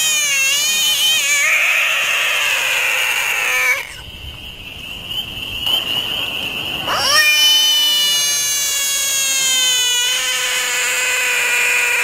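A frog held in the hand giving long, high-pitched screams, the distress call frogs make when grabbed. The first wavering scream breaks off about four seconds in, and a second, steadier one starts about three seconds later and carries on.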